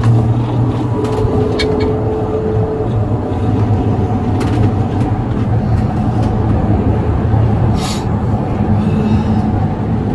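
Police vehicle driving on the road: steady engine hum and road noise, with a few faint clicks.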